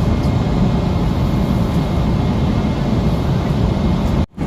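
Steady rumble and hiss of a jet airliner's cabin in flight, heaviest at the low end, briefly cut off near the end.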